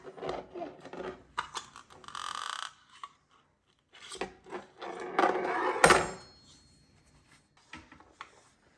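A knife and kitchen utensils knocking on a wooden cutting board as food is cut. Scattered knocks and clicks, two short rustling stretches, and one loud knock about six seconds in.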